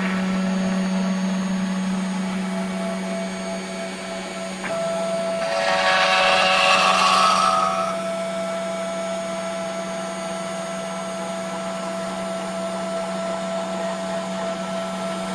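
CNC router spindle running steadily while carving walnut, with a steady hum and whine. About five and a half seconds in, the cutting gets louder and hissier for a couple of seconds, then settles back.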